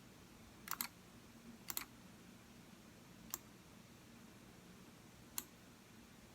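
Computer mouse button clicking: two quick pairs of sharp clicks about a second apart, then single clicks about three and five seconds in.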